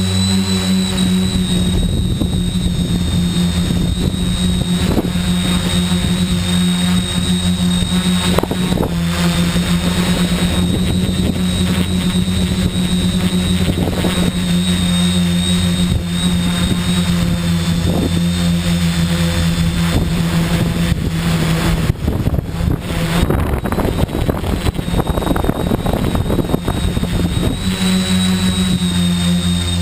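A tricopter's three electric motors and propellers buzzing steadily in flight, with a high whine above the hum and gusty wind noise on the microphone. About two-thirds of the way through, the hum wavers and breaks up for a few seconds as the motor speed changes, then settles again.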